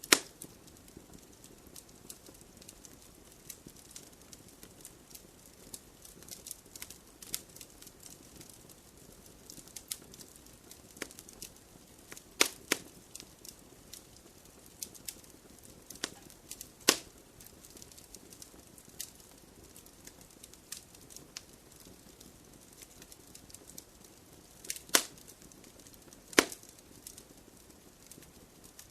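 Wood fire burning in a fireplace: a low hiss under irregular small crackles, with a few louder sharp pops from the burning logs scattered through.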